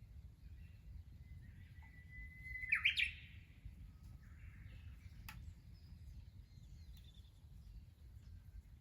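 A bird singing: one held whistled note that breaks into a quick, loud flourish about three seconds in, with fainter chirps around it. A single sharp click a little after five seconds.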